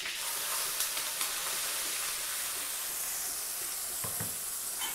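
Ground onion chutney paste sizzling in hot tempering oil in a kadai over a lowered flame: a steady frying hiss. A soft knock comes about four seconds in.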